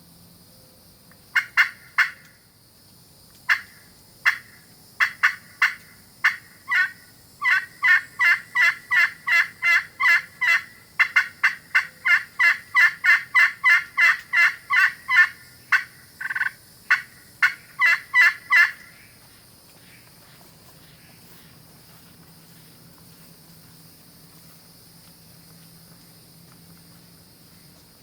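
Aluminum-surface turkey pot call in a canary wood pot, played with a striker: sharp turkey yelps, a few scattered at first, then a long even run of about three a second that stops about two-thirds of the way through.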